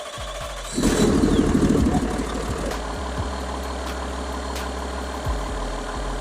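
Cummins ISL9 inline-six diesel engine starting up: it turns over, catches about a second in with a loud surge, then settles into a steady idle.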